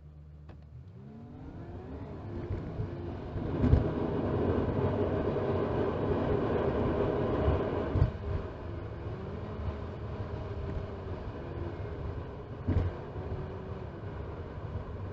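Toyota RAV4 pulling away and accelerating, heard from inside the cabin: the engine's pitch rises over the first few seconds, then settles into steady driving and road noise. Three short thumps come about four, eight and thirteen seconds in.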